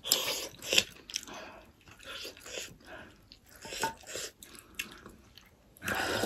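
Close-miked mouth sounds of eating pork momo: irregular wet chewing and smacking. Near the end comes a slurp of soup from a spoon.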